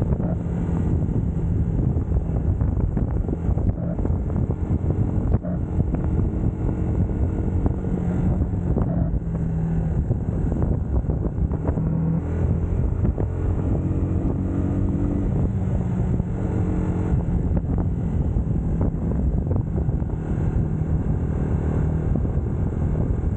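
UM Scrambler X motorcycle engine running on the move, its pitch shifting a little as the revs change, under wind buffeting on the camera microphone.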